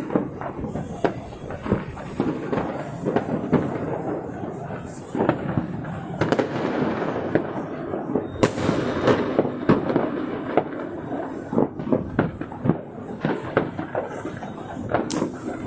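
Fireworks and firecrackers going off in rapid, overlapping cracks and bangs, with a few louder booms among them.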